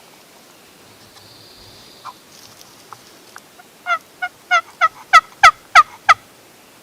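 A series of about eight turkey yelps, short notes each dropping slightly in pitch, about three a second, getting louder as the series goes on.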